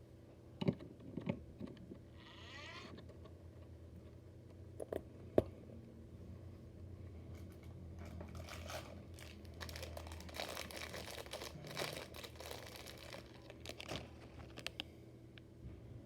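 Small objects being handled: scattered light clicks and taps, with a denser stretch of crinkly rustling in the middle, over a steady low hum.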